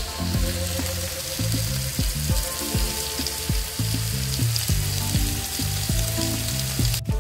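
Chopped onions, tomatoes, green chillies and whole spices sizzling steadily as they fry in oil in a wok, under background music.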